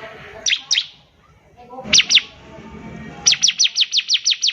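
Bar-winged prinia (ciblek) singing: two pairs of sharp down-slurred notes, then from about three seconds in a fast, even trill of down-slurred notes, about six a second.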